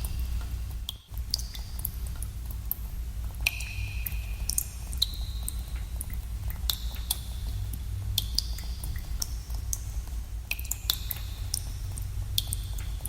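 Water drops falling irregularly in a cave, each one a short high plink with an echo, over a steady low rumble of cave ambience. The sound drops out briefly about a second in.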